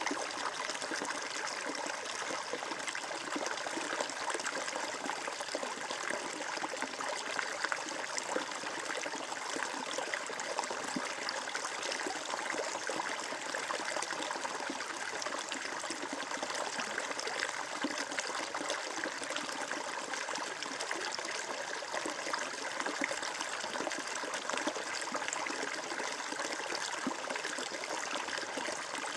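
Flowing water trickling steadily, an even rush with many fine splashes and no change throughout.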